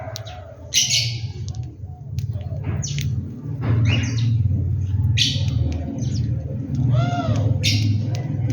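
Birds feeding, giving short chirps and harsh squawks at irregular moments, with a couple of arching calls about seven seconds in. A steady low hum runs underneath.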